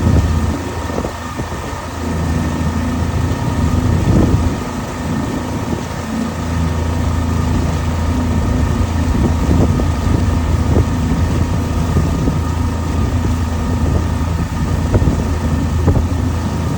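An engine running steadily throughout, with a continuous even hum.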